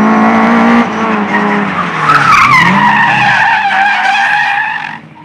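Slalom race car's engine held at high revs, then from about two seconds in its tyres squeal loudly through a slide, the squeal falling in pitch and holding for about three seconds before cutting off near the end.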